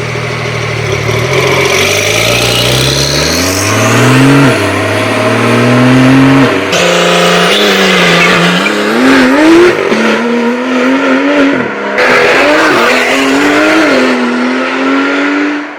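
Porsche 992 911 Turbo's twin-turbo flat-six through a Soul Performance valved exhaust, accelerating with the pitch climbing and dropping again and again as it revs through the gears. The sound changes abruptly about seven and twelve seconds in.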